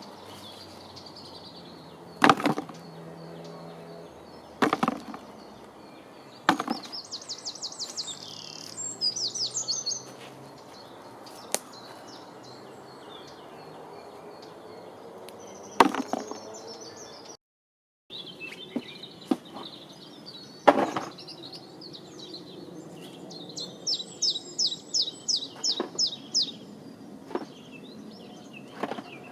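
A few single sharp knocks of wood being struck or set down, spaced several seconds apart, over outdoor birdsong with fast, high trilled phrases.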